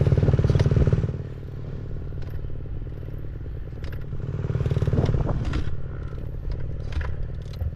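Dirt bike engine running, loud for about the first second and then dropping to a lower, steady running level, with scattered clicks and clatter.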